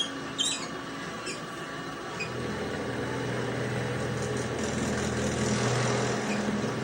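A few light clicks, then about two seconds in the electric motor of a small machine tool starts and runs with a steady hum.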